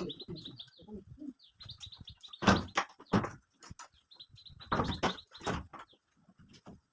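A bird chirping in quick runs of short, high, repeated notes, broken by four loud knocks, the loudest about two and a half seconds in, with softer clatter between.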